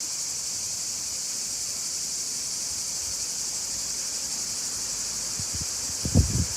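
Steady chorus of insects, an unbroken high buzz, with a few low thumps near the end.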